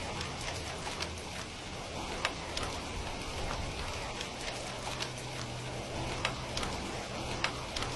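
Steady rain, mixed with the irregular snaps and pops of a crackling wood fire; a few sharper pops stand out.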